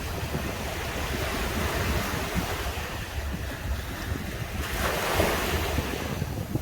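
Ocean waves breaking and washing up a beach, one wave surging louder about five seconds in, with a low rumble of wind on the microphone.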